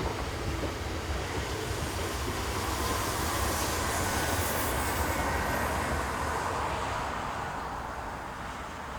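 Passenger train running past on the rails. The rumble and rail noise grow to their loudest about four seconds in, then fade as it moves away.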